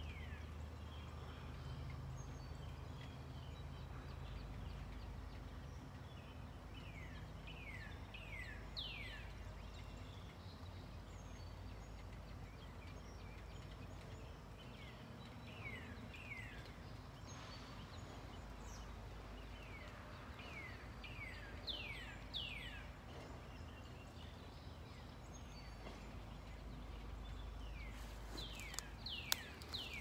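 A songbird singing a short phrase of four or five quick downward-slurred notes, heard three times: about 7 s in, around 20 s, and near the end. Under it runs a steady low background rumble, and a couple of sharp clicks come near the end.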